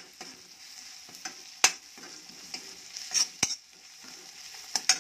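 Spice tempering (tadka) sizzling in hot oil in a kadai while a spoon stirs it, with a steady hiss and a few sharp clicks of the spoon scraping and knocking against the pan, about five in all, two of them near the end.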